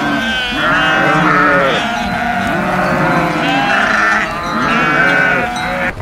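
A herd of goats bleating, many calls overlapping one after another.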